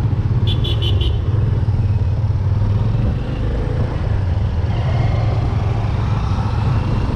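Motor vehicle engine running steadily with road and wind noise, heard on board while travelling. A short run of four quick high beeps sounds about half a second in.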